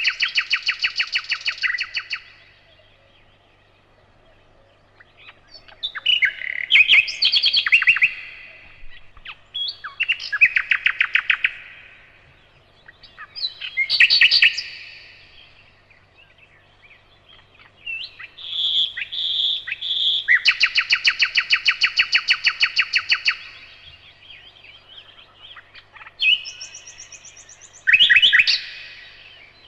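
Nightingale singing: about six phrases, each a few seconds of fast repeated notes and clear whistles, separated by short pauses. The longest phrase, a long run of rapid repeated notes, comes a little past the middle.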